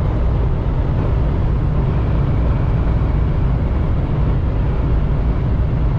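Steady low road and engine noise inside a semi-truck's cab at highway speed, even and unbroken.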